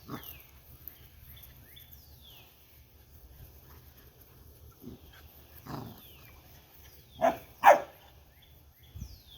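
Puppies yipping and barking while play-wrestling: a few short sharp yips, the loudest two in quick succession about three quarters of the way through, with faint high whines between.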